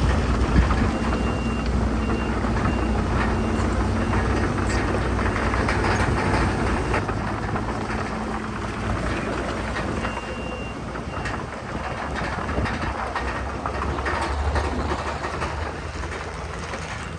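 Heavy earthmoving machinery at work: a diesel engine running under load with a continuous metallic clanking like crawler tracks. A reverse alarm beeps for a few seconds near the start and again briefly about ten seconds in.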